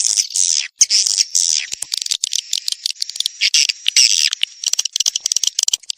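Edible-nest swiftlet calls from a swiftlet-house lure recording of mating ('birahi') calls: a string of high, buzzy chirps, about two a second, with rapid clicking between them through the middle.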